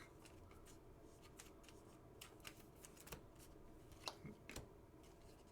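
Faint handling of trading cards: soft rustling and scattered light clicks as cards are slid and flipped, with a few sharper ticks past the middle.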